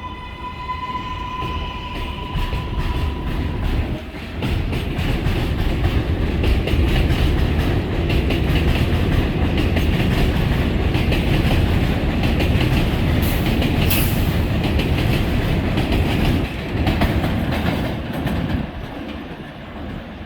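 R188 subway train running at speed: the propulsion motor whine levels off into a steady tone at the start and fades out, then a heavy rumble of wheels with rapid clickety-clack over the rails, easing off near the end.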